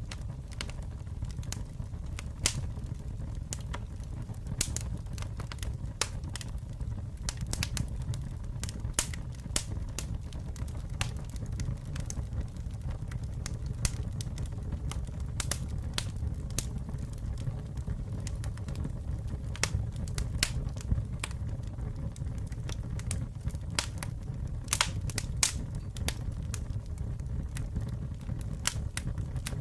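Campfire burning, with a steady low rumble and frequent irregular sharp crackles and pops from the burning wood.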